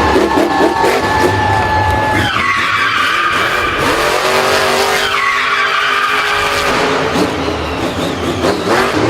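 Racing vehicle engines revving, the pitch jumping up and sliding down twice, with tyres skidding.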